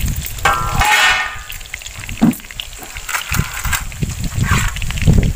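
Whole bitter gourds frying in hot oil in an iron kadai, crackling over a low rumble. A short, animal-like call sounds about half a second in.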